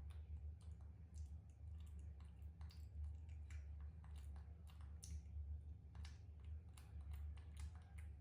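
Faint, irregular clicks and ticks, several a second, over a steady low hum.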